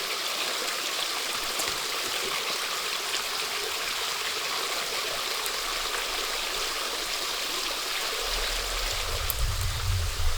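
Steady rush of a flowing stream. A low rumble comes in over the last couple of seconds.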